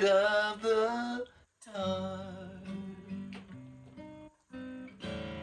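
Acoustic guitar and voice closing out the song: the last sung note is held for about a second, then after a brief stop the guitar strums chords that ring out, breaks off once more and strums a final chord near the end.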